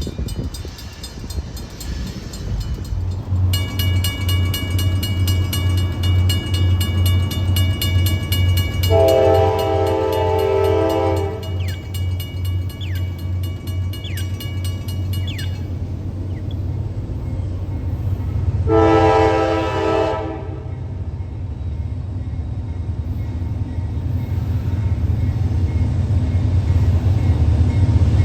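Approaching diesel freight locomotive with its engine throbbing and growing louder, sounding its multi-chime air horn twice: a longer blast, then a shorter one. A rapid high ringing runs through the first half.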